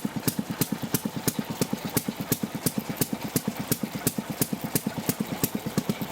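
Sheffield railroad engine, a water-cooled single-cylinder two-stroke, idling steadily with an even, regular beat of firing strokes.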